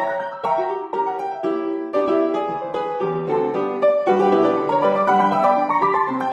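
Instrumental music led by piano, with notes struck about twice a second.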